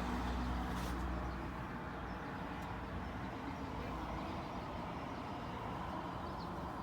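A vehicle engine's low, steady hum that fades away about two seconds in, leaving a steady background hiss.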